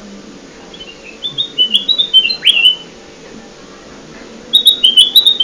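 Ruby-throated bulbul (kutilang emas) song from a lure recording. It gives a quick run of short, high chirping notes ending in a sharp downward-swept note, and the phrase comes twice, the second starting near the end.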